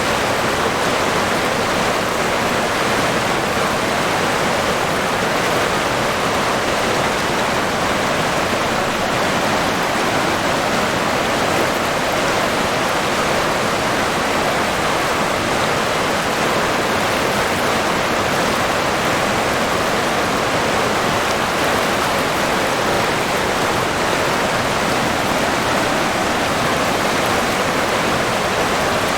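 River water flowing and rushing steadily, an even, unbroken sound.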